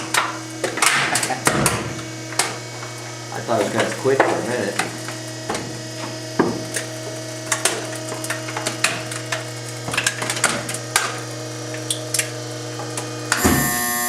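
Trash compactor's electric motor humming steadily as the ram crushes a microwave oven, with repeated sharp cracks and snaps of the breaking casing. Near the end a loud steady buzzer starts: the compactor signalling that it is full.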